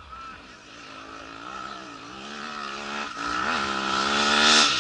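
Rally motorcycle approaching at speed, its engine revving up with a couple of brief dips in pitch at gear changes and growing steadily louder, loudest near the end as it nears the pass.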